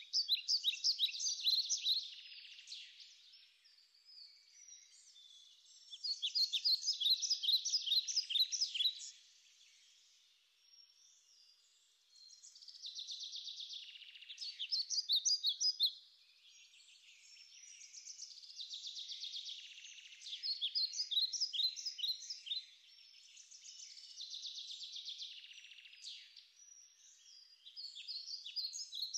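A songbird singing in repeated phrases of rapid, trilled, high-pitched notes, each phrase lasting two to four seconds, with short pauses between them.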